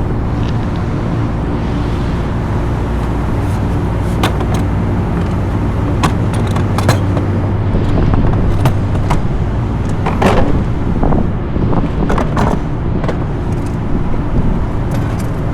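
Steady low mechanical drone with a few pitch lines in it, with scattered sharp clicks and knocks on top.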